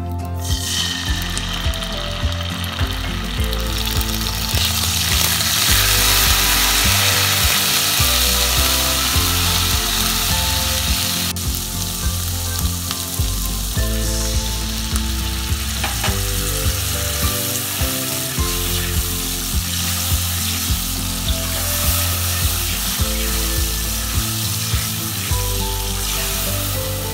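Hot oil in a black wok sizzles sharply the moment a watery mixture is poured in over frying curry leaves. The sizzling is loudest for the first ten seconds or so, then settles to a steadier bubbling as tamarind paste is added and stirred in.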